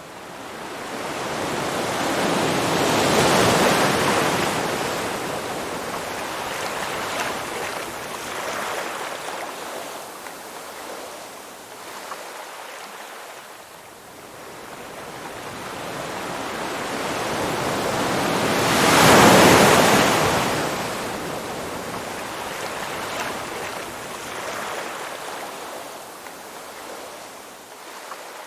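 Ocean waves washing in and drawing back, rising and falling slowly. Two bigger waves break, one about three seconds in and one at about twenty seconds, with smaller washes between them.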